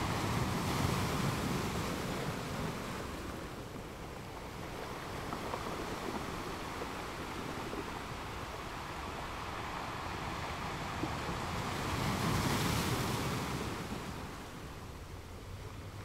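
Ocean surf breaking and washing up a sandy beach: a steady rushing wash that swells louder twice, at the start and again about twelve seconds in, as waves come in.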